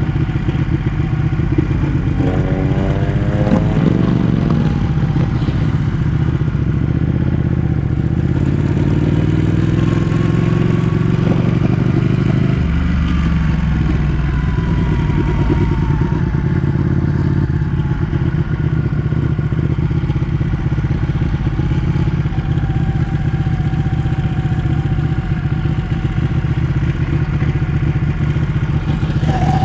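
Ducati 1199 S Panigale's 1198 cc V-twin running under way. The revs climb in a couple of quick rising sweeps about two to four seconds in. The note steps down suddenly a little before halfway, then holds steady.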